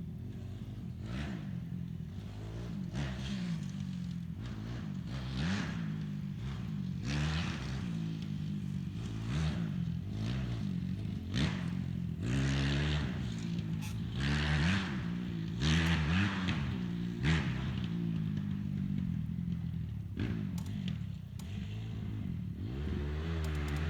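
Dirt bike engine revving up and down over and over as it is ridden, its pitch climbing and dropping every second or two.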